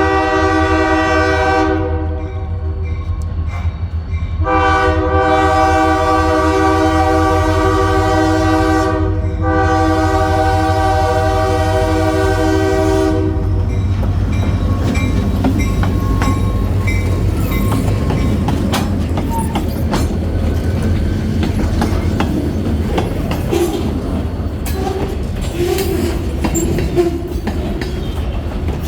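Kiamichi Railroad EMD SD40-2 diesel locomotives approaching and passing: the air horn sounds in long blasts, one ending about two seconds in and two more in the first half, over the steady low rumble of the diesel engines. After the horn stops, the locomotives go by with wheels clacking over the rail joints.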